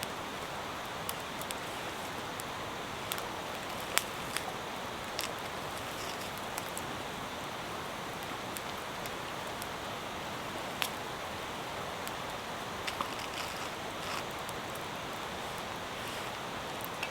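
Steady hiss of heavy rain falling, with a scattered few sharp clicks through it, the loudest about four seconds in.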